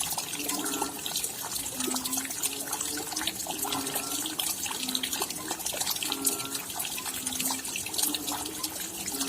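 Raindrops falling in a dense, even patter of drips. Short low pitched notes recur under it every second or so.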